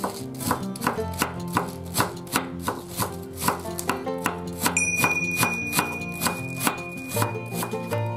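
Kitchen knife shredding a head of white cabbage on a wooden cutting board: a steady run of crisp cuts ending in knocks on the board, about two to three a second. Soft background music plays underneath.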